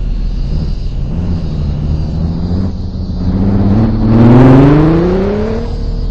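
Vehicle engine running steadily, then revving up as it accelerates: the pitch climbs from about four seconds in, loudest midway through the climb, and then holds at a higher steady pitch near the end.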